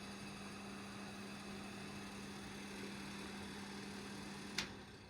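A steady low electrical hum with a faint hiss. A single sharp click comes about four and a half seconds in, and the hum then fades out.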